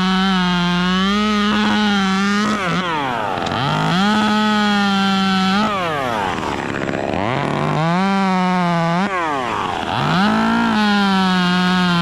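Two-stroke chainsaw running at high speed. Its pitch sags and climbs back three times, about every three seconds.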